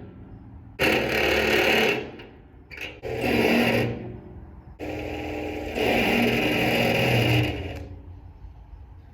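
Power drill with a step bit boring through the steel wall of a drum in three runs: a short one about a second in, a shorter one near the middle, and a longer one of about three seconds toward the end.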